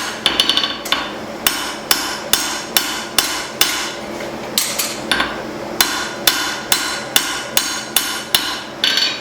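Hand hammer striking hot leaf-spring steel on an anvil, about two blows a second with a bright metallic ring, planishing the cleaver to a forged finish. The blows pause briefly a little before the middle, then carry on.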